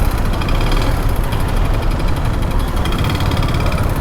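Motorcycle running while being ridden along a road, a steady low rumble.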